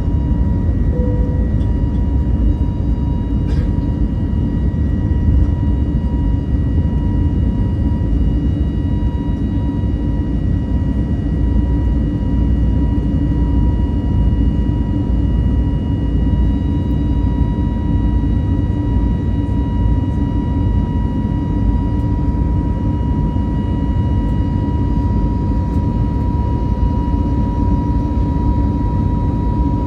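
Cabin noise inside an Airbus A320neo (A320-251N) under the high thrust of its CFM LEAP-1A turbofans during takeoff: a loud, steady rumble with a steady high tone from the engines running above it.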